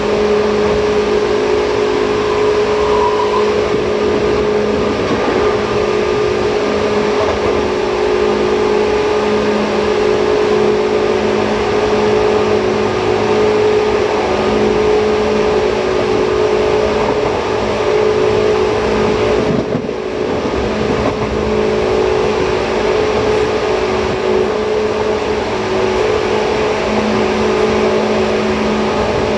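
Interior running sound of a Seibu 2000 series electric train at steady speed: an even hum from the traction motors and gears over rumbling wheel and track noise, briefly dipping about twenty seconds in.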